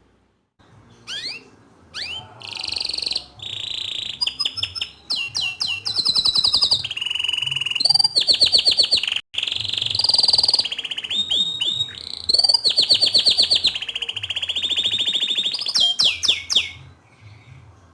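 Green domestic canary singing a long, continuous song of fast trills and rolling phrases, with a brief break about nine seconds in.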